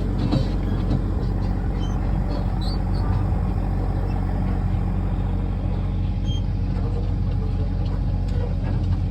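A steady, low machine hum that does not change.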